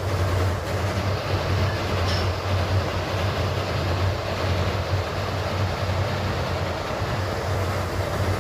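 Steady rumbling noise with a strong low hum, like a machine or vehicle running.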